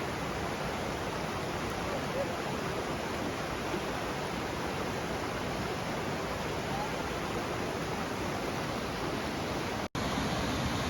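Steady rush of the Presque Isle River's rapids and falls, running high after a couple of days of rain. The sound drops out for an instant near the end and comes back a little louder.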